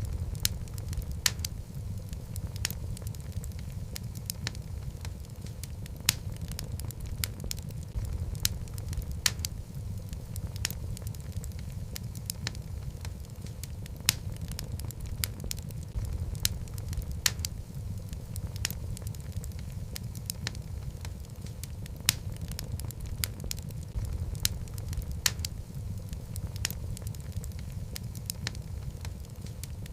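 Wood fire of burning logs in a fireplace: a steady low rumble of flames with frequent irregular crackles and occasional sharper pops.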